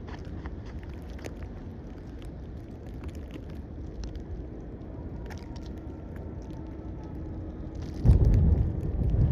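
Snowstorm street ambience: a low steady rumble with scattered light ticks, then about eight seconds in wind starts buffeting the microphone loudly.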